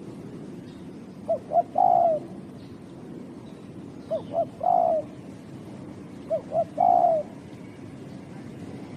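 Spotted dove (terkukur) cooing: three phrases about two and a half seconds apart. Each phrase is two short coos followed by a longer, slightly falling coo.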